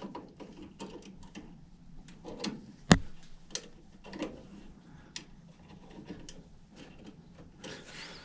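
Scattered small clicks and ticks of thermostat wires being fitted into a furnace control board's terminal block, with one sharp click about three seconds in.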